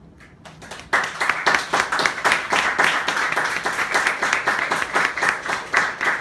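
Audience applauding at the end of a song: a few scattered claps at first, then steady clapping from about a second in.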